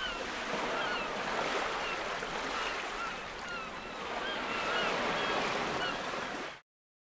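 Steady rushing of storm wind and rain, with short high chirps repeating every second or so; it cuts off abruptly near the end.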